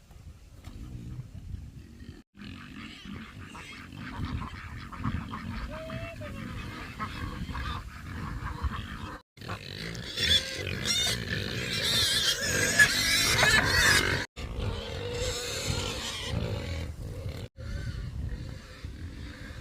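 Farm animals calling, heard in several short segments that break off abruptly; the sound is loudest and harshest through the middle stretch.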